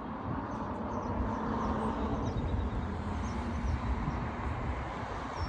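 A steady engine running with a low rumble and a rushing noise, a faint hum in the first half, and a few faint high chirps over it.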